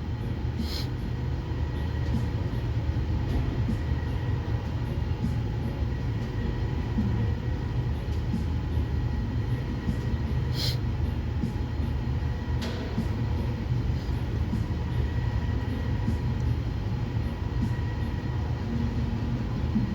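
Steady low machinery rumble with a faint, high, steady whine over it, and a few light clicks about eleven and thirteen seconds in.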